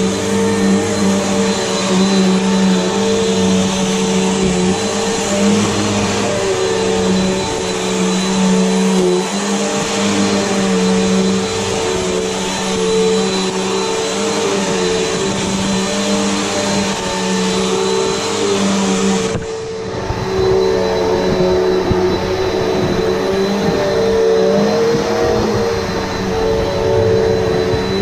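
Upright vacuum cleaner running steadily, a motor hum with a thin high whine over it. About two-thirds of the way through, the sound shifts abruptly and its topmost hiss drops away.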